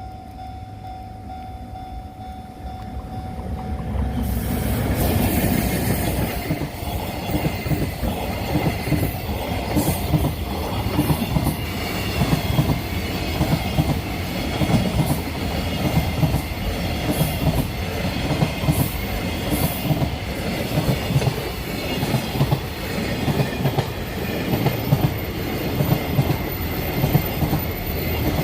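Freight train passing at speed: the locomotive sweeps in about four seconds in, then a long string of wagons runs by with a steady clickety-clack of wheels over the rail joints.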